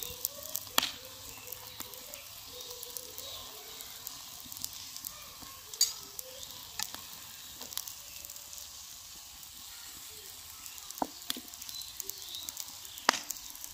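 Radish-and-gram-flour batter paratha frying in ghee on a flat pan. It sizzles steadily, with scattered sharp pops and crackles.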